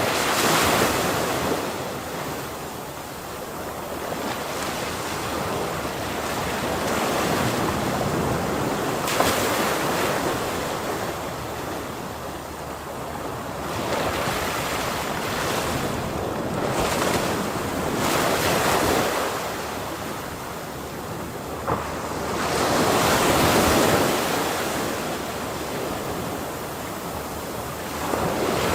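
Ocean waves breaking and washing on a shore, a steady surf that swells with each wave every few seconds, with wind on the microphone.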